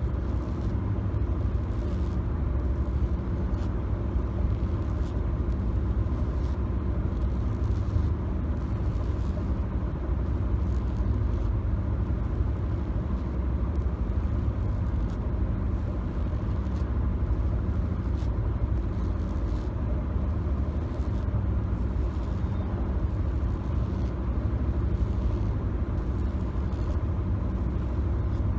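Car cabin noise on the move: a steady low road and engine rumble, heard from inside the car, with faint scattered clicks over it.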